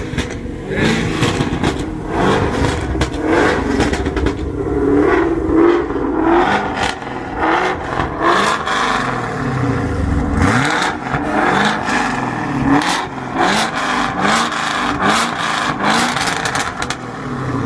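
Car engine revved over and over in short rising blips.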